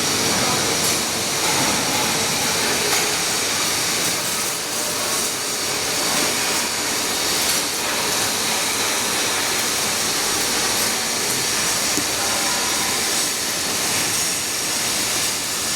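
Machine drilling metal, running steadily with a constant hiss and a faint whine.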